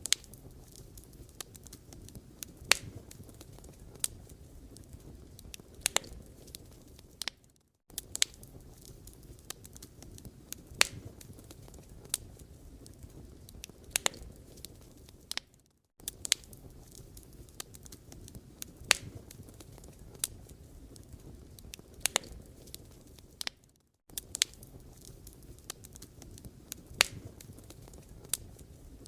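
Firewood burning, crackling with irregular sharp pops over a low steady rustle of flames. The sound cuts out briefly about every eight seconds.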